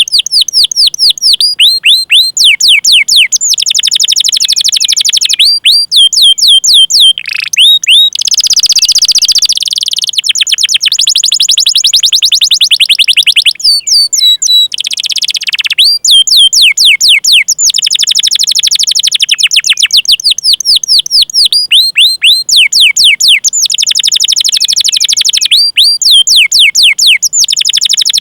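Domestic canary singing a long, loud song of fast, repeated chirps that each sweep down in pitch, run together into rolling trills, with two brief harsh buzzing passages partway through.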